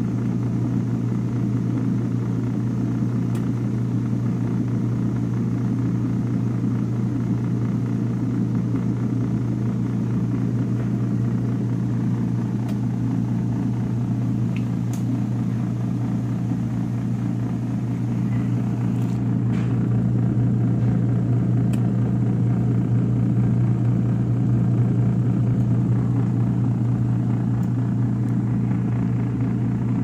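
YOKO mini washing machine's spin dryer running with a steady motor hum, a little louder in the second half.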